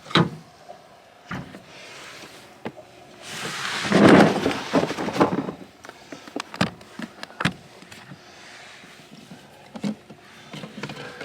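Scattered knocks and clatter of drinks and gear being moved about. Around four seconds in comes a longer, louder scraping, rustling noise, like something being slid or dug through.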